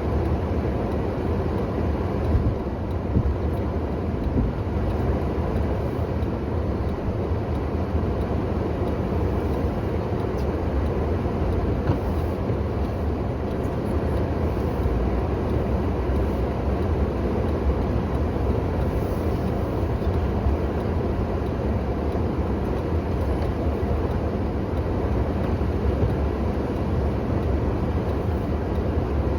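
Steady low rumble of a vehicle running, even throughout with no revving.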